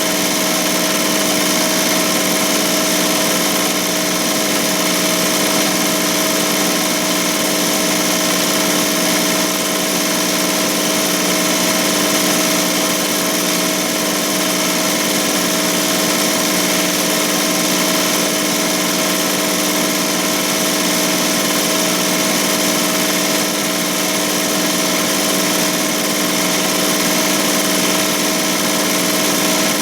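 ZSK Sprint 10-needle commercial embroidery machine stitching steadily at about 1200 stitches per minute: an even, unbroken mechanical run with a constant hum.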